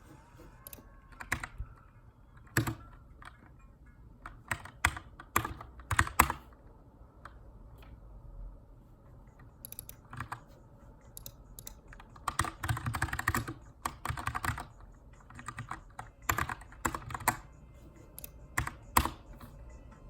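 Keychron K2 aluminium mechanical keyboard with brown tactile switches, typed on in irregular bursts of keystrokes with short pauses between them. There is a dense flurry of keystrokes about two-thirds of the way through.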